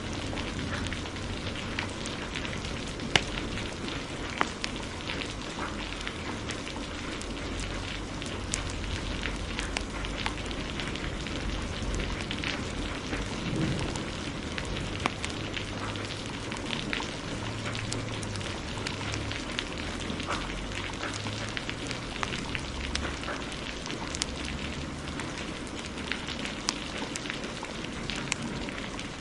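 Wood fire crackling, with frequent sharp pops scattered over the steady hiss of heavy rain; one pop about three seconds in stands out louder.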